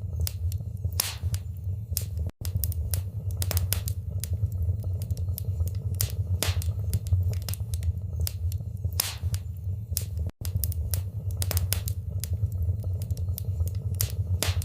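Wood fire burning in a fireplace: irregular sharp crackles and pops over a steady low rumble. The sound cuts out for an instant twice.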